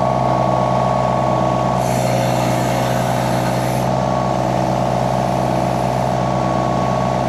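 Mini skid steer engine running steadily at high revs, its throttle just brought back up, while the loader strains to curl a load of about 2,000 pounds at the limit of its curl. A higher hiss joins in about two seconds in and again near the end.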